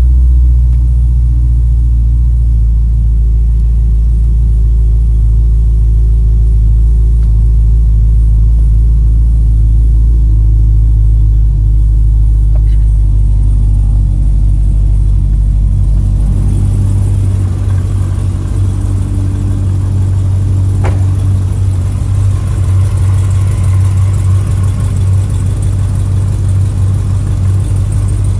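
Corvette ZR1's supercharged 6.2-litre LS9 V8 idling steadily at a raised cold-start idle after sitting for days, first heard from inside the cabin. From about sixteen seconds in the sound turns more open, with more hiss and whine over the deep idle.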